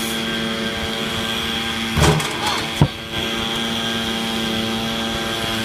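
A steady, unchanging motor or engine drone at one pitch, with a single sharp thump a little before the three-second mark.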